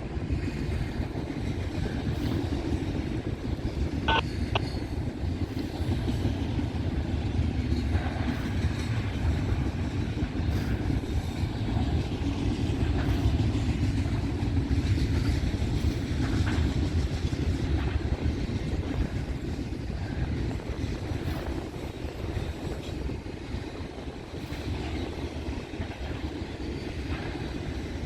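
Freight train rolling past, with a steady low rumble of cars on the rails and a brief high squeal about four seconds in.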